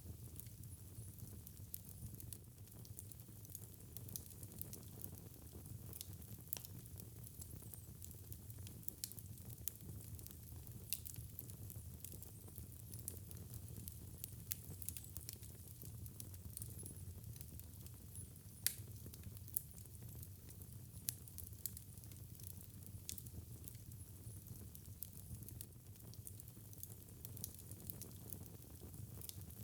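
Wood fire burning in a fireplace: a soft, steady low rumble of flame with a faint hiss and frequent small crackles and pops, one sharper pop near the middle.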